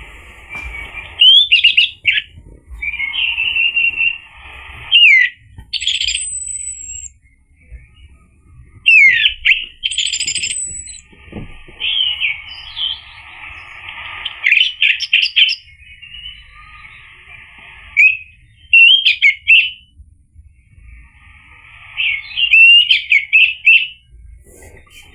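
Orange-headed thrush singing: a run of loud, varied song phrases of quick whistles, chirps and trills, each a second or two long, with short pauses between them.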